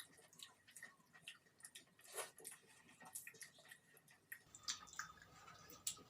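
Faint, scattered wet clicks and smacks of chewing a mouthful of rice and chicken curry.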